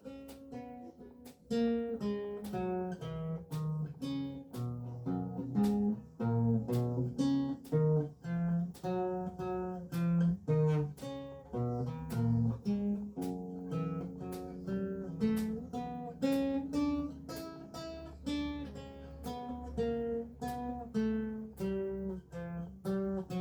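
Renaissance lute with gut strings played solo, a steady run of plucked notes and chords over a moving bass line.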